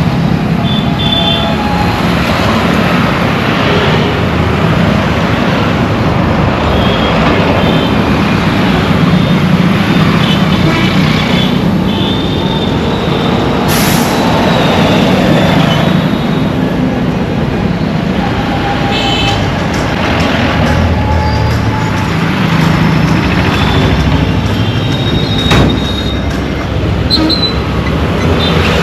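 Dense Indian road traffic: engines running under a steady hum of tyre and road noise, with short high-pitched tones scattered through it and two sharp clicks, about halfway through and near the end.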